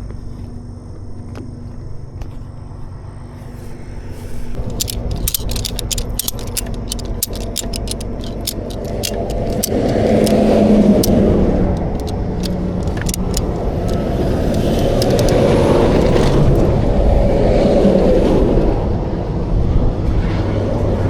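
Ratchet strap being cranked tight, a run of sharp metallic clicks. Underneath, a steady low rumble of highway traffic, with vehicles passing that swell up and fade twice.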